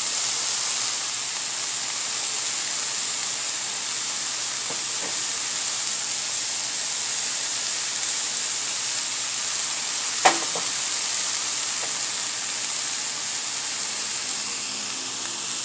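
Shaved beef steak with chopped bell peppers and jalapeños sizzling in a frying pan, a steady hiss. One sharp knock about ten seconds in.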